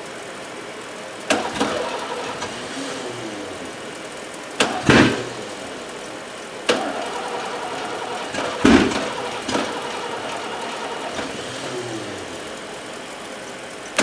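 A screwdriver is bridged across a cold Ford pickup's starter circuit, making about four sharp snaps, each followed by a short burst of starter cranking; the engine does not catch. A steady engine sound runs underneath.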